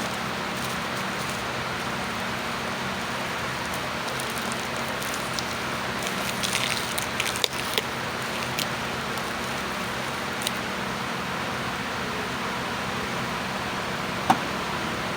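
Plastic parcel packaging crinkling and clicking in short scattered bursts as it is opened, most busily about halfway through, with a sharp click near the end, over a steady background hiss.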